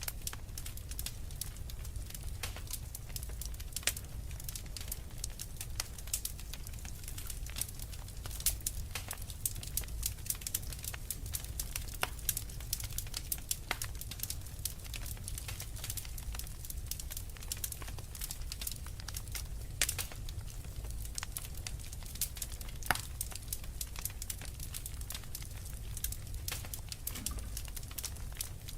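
Wood fire crackling in a fireplace, with irregular sharp pops and snaps scattered throughout over a steady low rumble.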